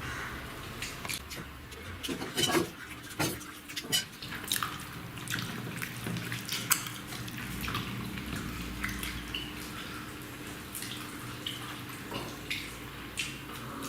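Eating sounds: irregular wet smacks and clicks of chewing parotta and duck curry, with the odd tap of food and fingers on the plates.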